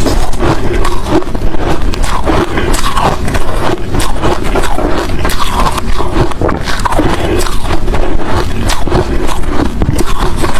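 Hard crushed ice and shaved ice chunks being bitten and chewed close to the microphone: a dense, unbroken run of sharp crunching cracks.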